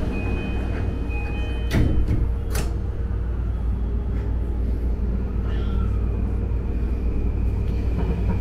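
Yamanote Line commuter train heard from inside the car: short high chime tones, the doors shutting with two knocks about two seconds in, then the train pulling out with a steady low rumble and a high motor whine coming in about six seconds in.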